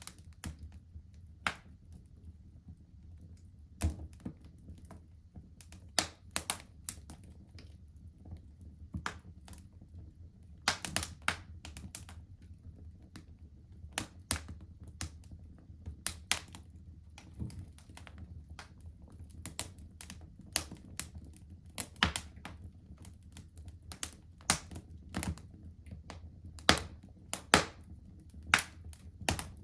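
Fireplace fire crackling, with irregular sharp pops and snaps over a low steady rumble; a few louder pops come near the end.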